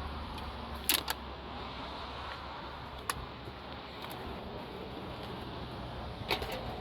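A car running with a steady low hum. Sharp clicks come over it: two about a second in, one at about three seconds, and two more near the end.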